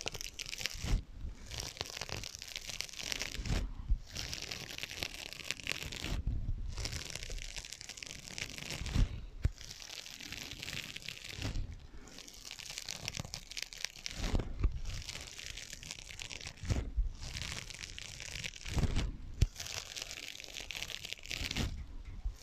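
Scratching on sponges with an added echo effect, in scratchy strokes of about two to three seconds each, broken by short pauses.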